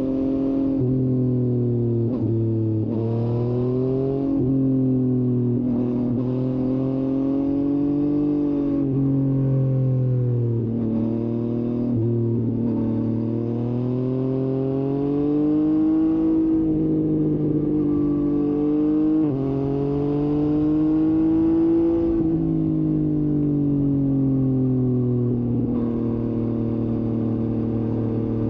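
Yamaha MT-09's CP3 three-cylinder engine under way. The revs climb for a few seconds and then fall sharply, again and again, as it pulls through the gears.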